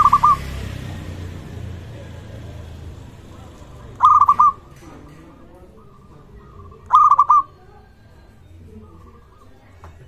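Zebra dove (perkutut) cooing: three short phrases of quick, rolling coo notes about three to four seconds apart, with fainter coos in between.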